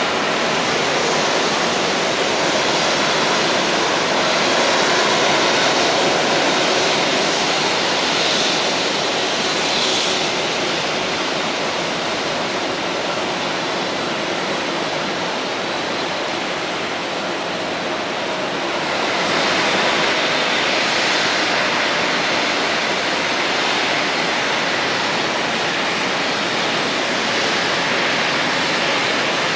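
Steady roar of a Boeing 777-300ER's GE90 jet engines, swelling and easing slightly twice.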